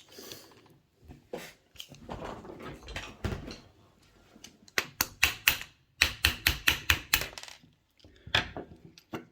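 Screwdriver probing and tapping in the shell chambers of a multi-shot 40mm 'beehive' round, checking which shells fired: handling noise, then two quick runs of sharp taps in the middle and one more near the end.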